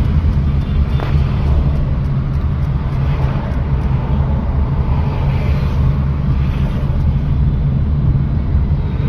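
Car being driven, heard from inside the cabin: a steady low engine and road rumble.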